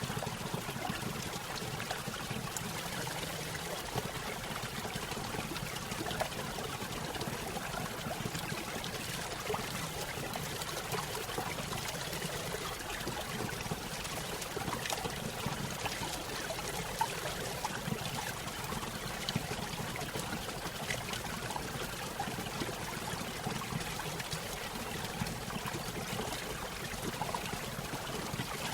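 Small stream tumbling over a little waterfall: steady, even trickling and splashing of running water with small bubbling flecks throughout.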